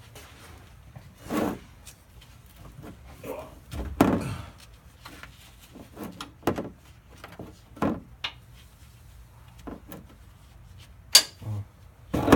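Irregular knocks and clunks with a few sharp clicks, as of tools and parts being handled during a truck oil change. The loudest thud comes about four seconds in and a sharp click near the end.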